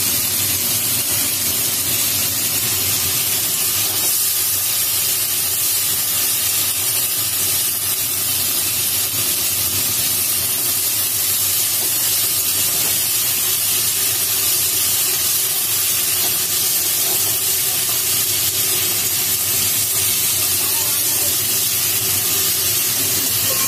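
Onion and tomato frying in oil in an iron wok, a steady sizzling hiss.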